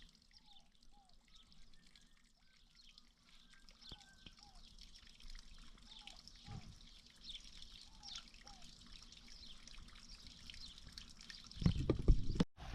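Faint bird calls, short falling chirps that mostly come in pairs, over a low trickle of water. Near the end a louder low rumble comes in, then the sound cuts off suddenly.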